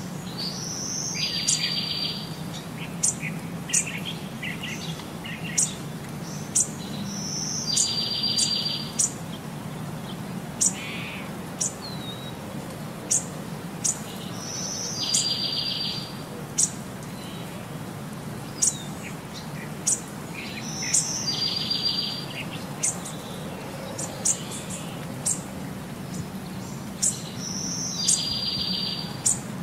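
Birdsong: a short, high trilled phrase repeats about every seven seconds, with sharp high chirps scattered between, over a steady low hum.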